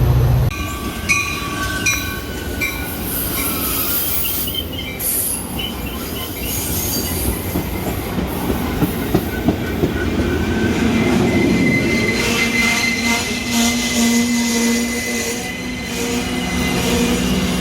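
Metra commuter train moving on the rails, its wheels squealing in high, shifting tones over a steady rumble, with scattered clicks.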